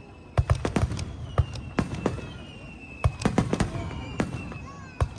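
Aerial fireworks bursting in quick succession: a string of sharp bangs and crackles, densest around a second in and again just after three seconds. A thin high whistle glides slowly down beneath them.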